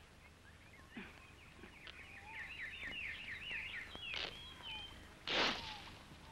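Birds calling: a fast warbling trill about two seconds in, then a few short whistles. A brief, loud burst of noise follows about five seconds in.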